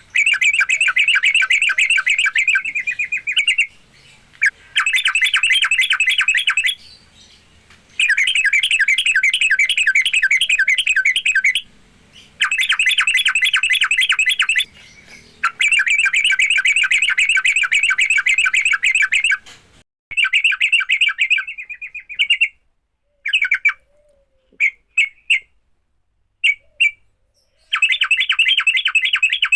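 Yellow-vented bulbul (trucukan) fighting song: long, fast chattering trills of rapid repeated notes in phrases of about three to four seconds with short pauses. In the last third the phrases break into short bursts.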